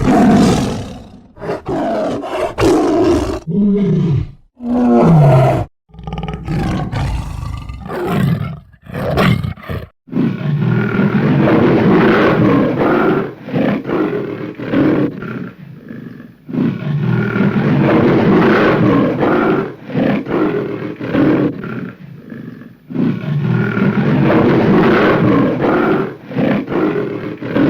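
Tiger roaring and growling: a string of separate loud roars in the first ten seconds, then long bouts of repeated deep roaring.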